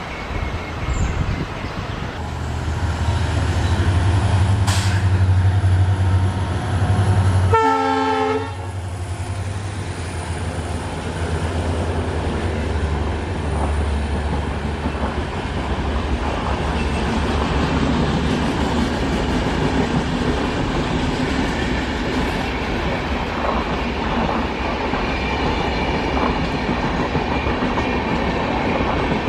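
Express train passing close by. The locomotive's low engine drone builds and holds, and a short horn blast sounds about eight seconds in. After that the coaches' wheels clatter steadily over the rail joints.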